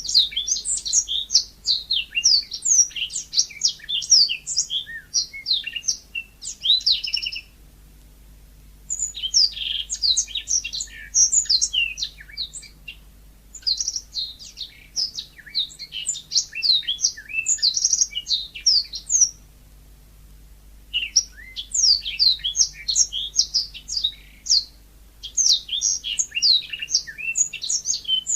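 Yellow-fronted canary (mozambik) singing a fast, varied twittering song in long phrases of several seconds, broken by short pauses.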